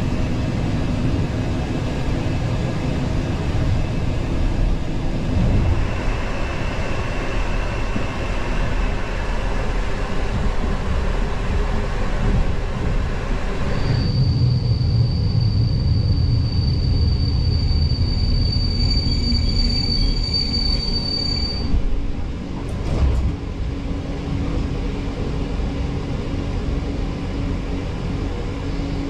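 Regional passenger train running on the rails with a steady rumble. About halfway through, a high, steady wheel squeal sets in, holds for several seconds and then cuts off, followed shortly by a brief knock.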